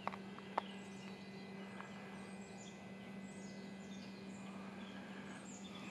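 Birds chirping in short, high, downward-sliding calls over a faint steady low hum, with two soft clicks within the first second.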